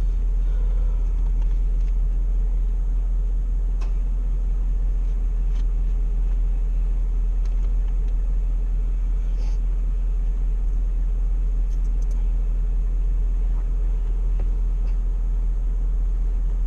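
Car engine idling, a steady low rumble heard from inside the parked car's cabin.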